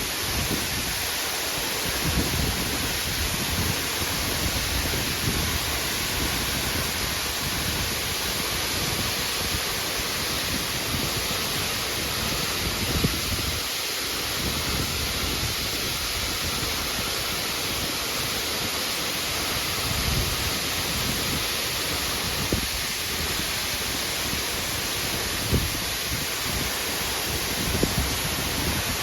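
Yasu-no-taki waterfall: the steady, unbroken rush of falling water, with a few brief low bumps.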